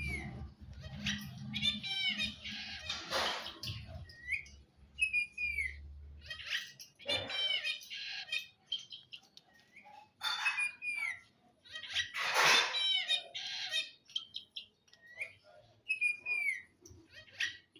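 Pet green parrot calling: a string of short chirps and curling whistles with several harsh squawks, the loudest squawk about two-thirds of the way through.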